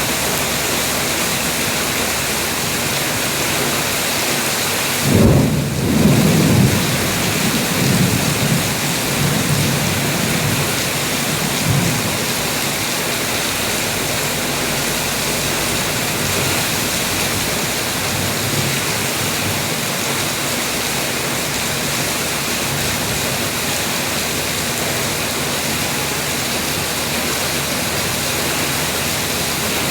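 Heavy rain falling steadily. About five seconds in, a sudden clap of thunder rolls on as a low rumble for several seconds and fades.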